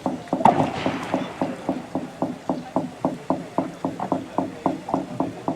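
Fast, even knocking, about four or five short strokes a second, each with a brief hollow ring.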